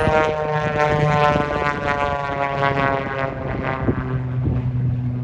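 Beechcraft Bonanza's piston engine and propeller making a pass overhead: a steady, many-toned drone that slowly falls in pitch as the airplane goes by.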